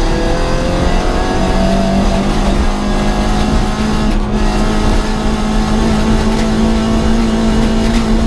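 Rally car engine heard from inside the cabin, pulling hard along the stage at a nearly steady pitch, with a pitch change at the start and a short dip about four seconds in, as at a gear change or a lift off the throttle.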